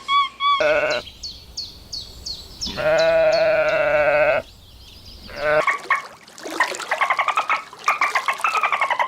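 Livestock bleating: a short bleat, then one long wavering bleat lasting about a second and a half, followed by a run of quick, chattering calls that starts about halfway in.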